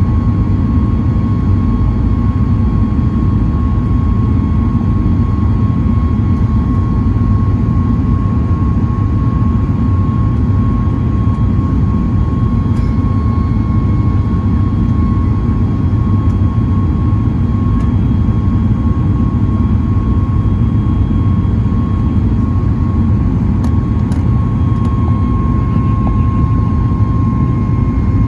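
Steady jet cabin noise inside a Boeing 737 MAX 8: the low rumble of its CFM LEAP-1B turbofans and the airflow, with a constant whine on top.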